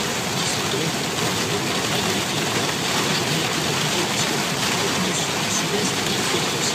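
Heavy storm rain and road noise from a car driving on a motorway, a steady unbroken rush of water and tyres on the wet road.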